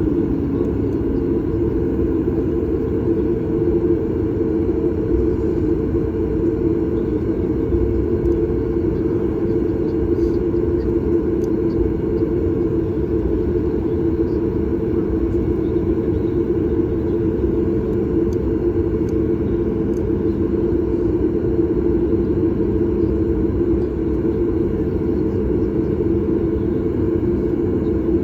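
Steady cabin drone of a Boeing 737 MAX 8's CFM LEAP-1B engines, heard from inside the cabin: an even low rumble with a steady hum.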